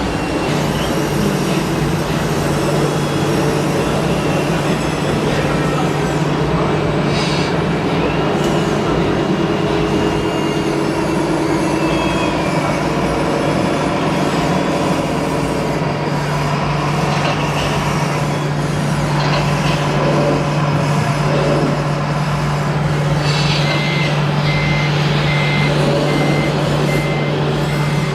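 Truck engine running steadily, with a few clanks, and a reversing beeper sounding in a regular run of beeps for the last few seconds.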